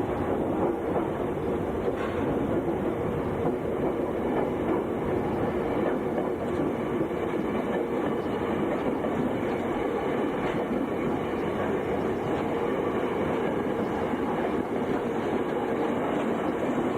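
Meitetsu Inuyama Line electric train running on its track, a steady rumble of wheels on rail.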